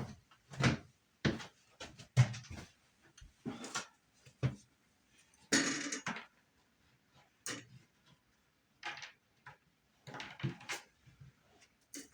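Irregular knocks and clunks of hand work on wood framing, about a dozen scattered strikes. There is a longer scraping rustle about halfway through.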